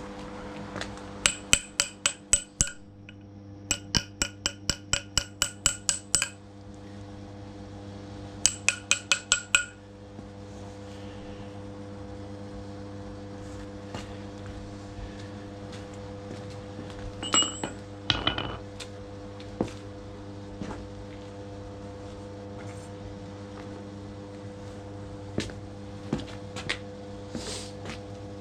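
Rapid hammer blows on metal in three quick bursts of about five strikes a second, each strike ringing, then a few scattered taps and knocks. A steady hum runs underneath.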